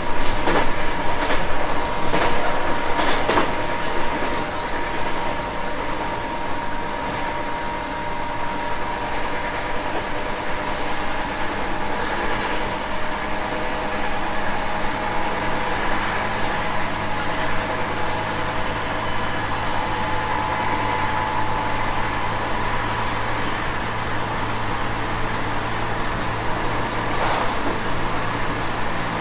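JR West 221 series electric train running on the rails. The wheels click over rail joints in the first few seconds, then the train runs steadily with a whine under the rolling noise.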